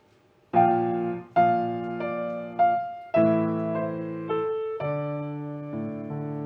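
Solo piano playing. After a brief pause, loud chords strike about half a second in, then more chords follow about once a second, fading between strikes, before the playing settles into softer held chords.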